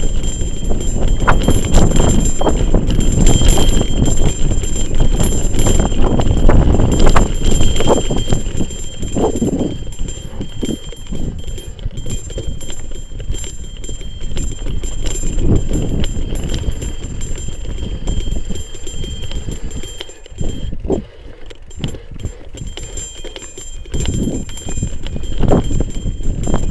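Mountain bike rattling and clattering over a rough, rutted dirt trail, a steady run of knocks and jolts, with wind buffeting the action-camera microphone. The clatter eases for a few seconds about twenty seconds in.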